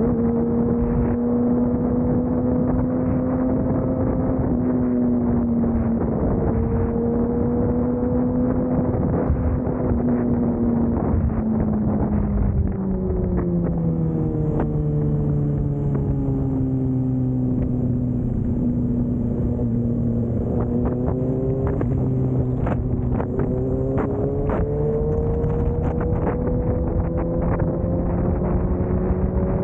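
A motorcycle engine running under way. Its pitch holds steady, then drops over several seconds as the bike slows, and climbs again near the end as it speeds back up. A few sharp ticks come in the second half.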